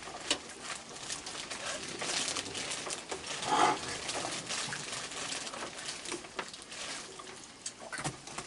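A crowd of raccoons feeding, with scattered short clicking and scuffling noises. About three and a half seconds in, a short raccoon call is the loudest sound.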